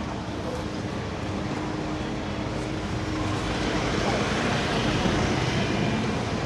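Street traffic: steady motor vehicle noise, with a vehicle passing close and growing louder about four seconds in.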